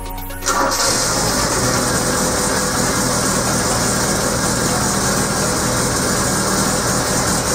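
Toyota AE86's 4A-GE twin-cam four-cylinder engine starting about half a second in, then running steadily. The poor-running fault it was being repaired for is still not cured.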